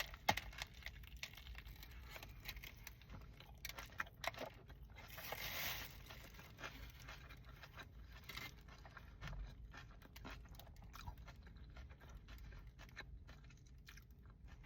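A person biting into and chewing a chicken Caesar wrap close to the microphone: faint scattered crunches and mouth clicks, with a slightly louder stretch of bite noise about five seconds in.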